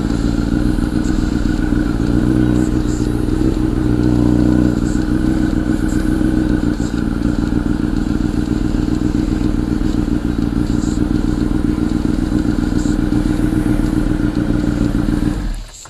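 Honda CBR1000 inline-four with an aftermarket Two Brothers exhaust idling steadily, then switched off near the end, the sound cutting out suddenly.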